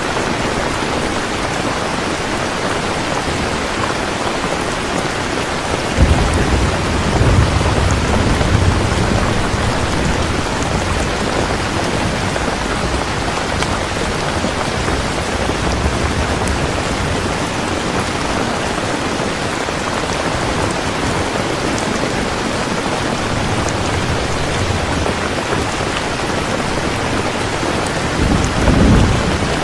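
Heavy, steady rain. Thunder rumbles in suddenly about six seconds in and dies away over a few seconds, and another roll of thunder builds near the end.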